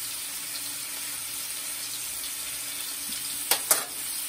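Ground-beef slider patties sizzling steadily in a nonstick frying pan, with two sharp clicks about three and a half seconds in.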